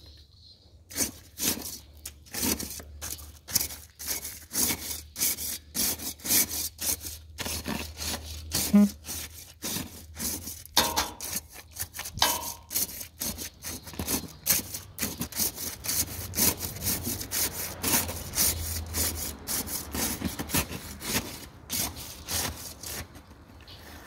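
Hand saw cutting back and forth in quick, even strokes, about two a second, which stop near the end.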